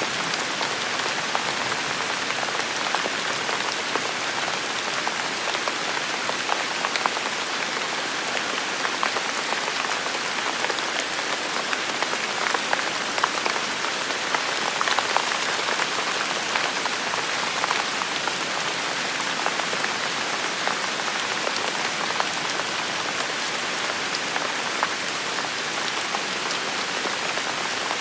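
Heavy rain falling steadily, a dense hiss of drops with many small separate patters and ticks on the surfaces.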